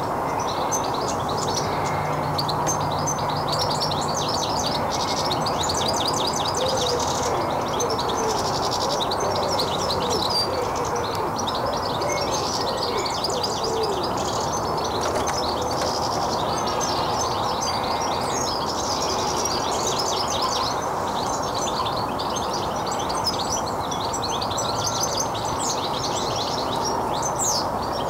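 Garden birds chirping and singing in quick, high trills, many calls overlapping, over a steady low background rumble.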